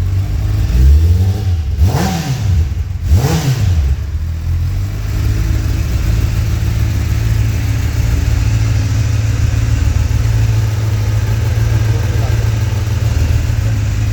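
Kawasaki Ninja sport bike engine revved through its exhaust in three quick blips, each rising and falling in pitch, then settling to a steady idle for the rest of the time.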